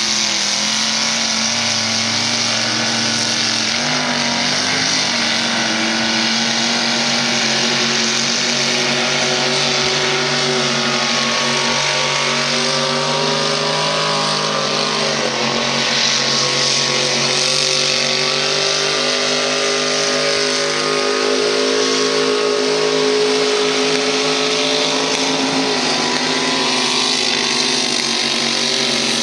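Mud racing truck's engine running hard at high revs, its pitch rising and falling as the throttle is worked.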